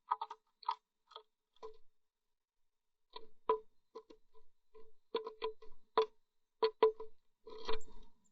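Irregular sharp taps and scratches ringing in a small wooden nest box, a blue tit pecking and moving about inside. A few taps come first, then after a pause of about a second a denser run.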